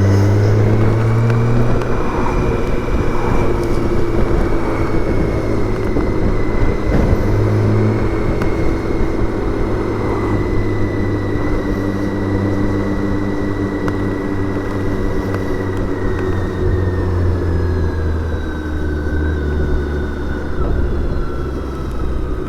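BMW K1600 GTL's inline-six engine running under way at a fairly steady cruise, mixed with wind and road noise; the engine note and a thin whine ease down a little near the end.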